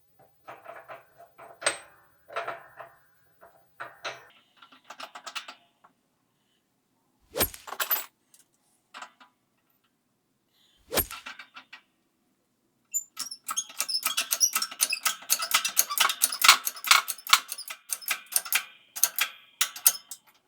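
Metal parts and hand tools being handled during washing-machine repair: scraping and small clicks, two sharp knocks, then from about two-thirds of the way through a long run of rapid clicking and rattling.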